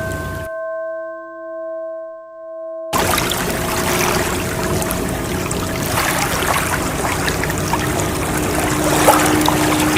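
A struck singing bowl rings on, its steady tones slowly fading with a slight wavering in the lowest one. The water sound of ocean waves drops out for a couple of seconds, leaving the bowl ringing alone, then rushes back in about three seconds in and continues under the tone.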